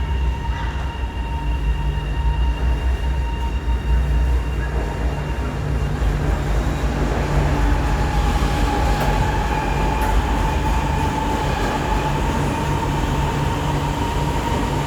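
Light-rail train running on its tracks: a steady low rumble with a constant high whine that dips slightly in pitch midway.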